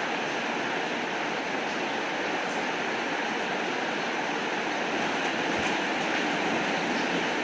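Steady rain falling, an even hiss, with a few light drop ticks near the end.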